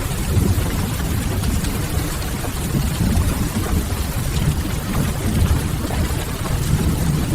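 Rain and wood-fire ambience: steady rain with a deep, even rumble under it and soft crackling of burning firewood.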